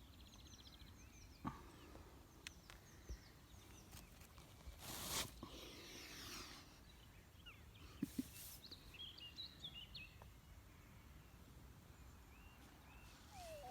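Near silence outdoors with faint songbird chirps coming and going, a few soft clicks, and one short breathy rush of noise about five seconds in.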